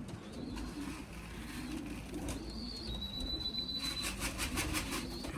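Racing pigeons cooing steadily in a loft, with a thin high steady tone about three seconds in and a quick run of faint rapid ticks near the end.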